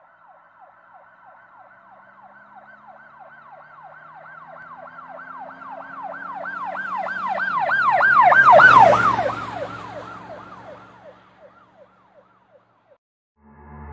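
An emergency vehicle's siren on a fast yelp, sweeping up and down about three to four times a second, approaches, grows loud a little past halfway and then fades away as it passes. The siren and the vehicle's engine drop in pitch as it goes by.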